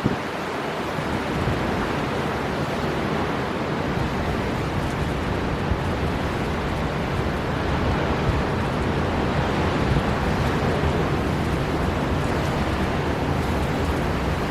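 Storm wind and heavy sea surf: a dense, steady rush of noise with a strong low rumble that builds about a second in.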